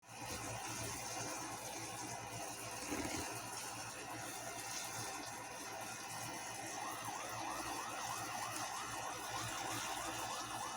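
An alarm goes off about seven seconds in: a repeating electronic warble that rises and falls about twice a second, over faint steady background noise.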